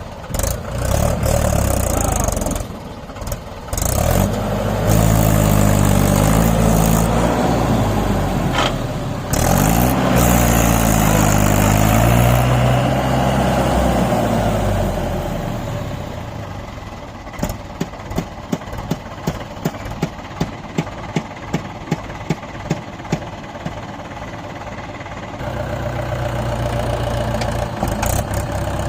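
Tractor diesel engine revving up and down twice, its pitch rising and falling. A run of sharp regular clicks at about two a second follows, then the engine runs more steadily near the end.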